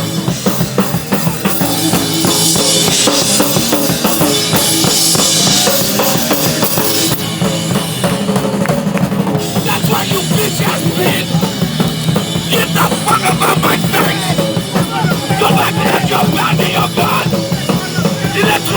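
Hardcore punk band playing live and loud, the drum kit prominent with bass drum and snare, and a wash of crashing cymbals from about two to seven seconds in.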